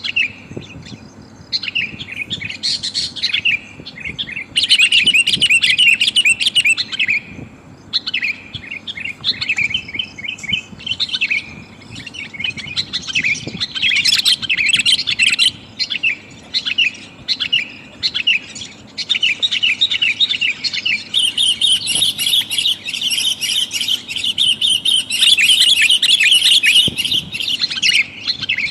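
Sooty-headed bulbul (kutilang) giving rapid chattering chirps in near-continuous bursts with brief pauses: a trapping lure call billed as a female calling to a male.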